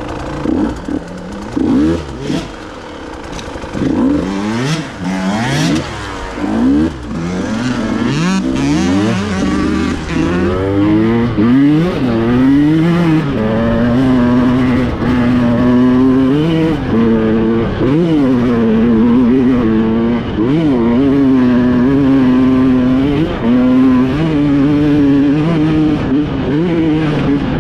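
KTM EXC 150 two-stroke enduro motorcycle being ridden. For about the first ten seconds it gives short, choppy throttle blips; after that comes a steadier run, with the engine pitch rising and falling again and again as it revs up and backs off.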